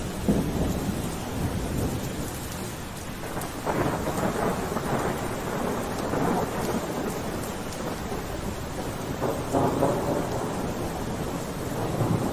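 Steady rain with low rumbles swelling up and dying away several times.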